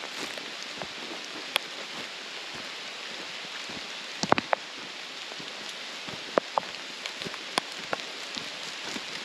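Steady rain falling, with scattered sharp drop impacts and pops, a brief cluster of louder ones about four seconds in.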